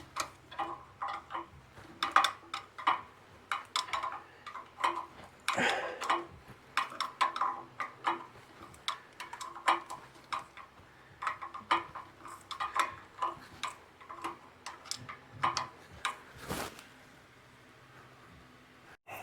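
Hand tools working on a tractor's metal parts: an irregular run of sharp clicks, taps and clinks, going quieter near the end.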